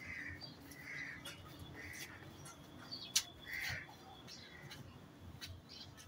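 A bird calling in short calls, four of them spread over the first four seconds. Faint rustling and scattered clicks come from hands rubbing crumbly ground bait in a plastic tray, with one sharp click a little after three seconds in.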